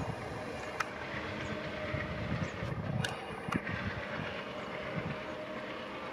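Passenger train coaches rolling away along the track: a steady rumble of wheels on rail with a few sharp clicks, easing a little as the train recedes.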